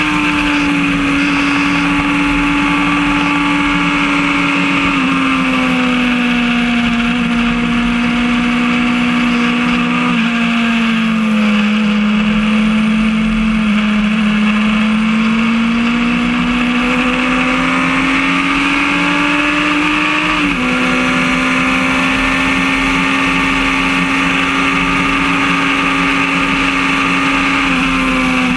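Motorcycle engine running hard at a steady high pitch. The note steps down a few times at gear changes and climbs slowly in between, with wind rushing over the onboard camera.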